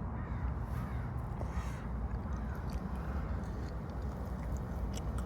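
A crow cawing about three times in the first two seconds, over a steady low rumble.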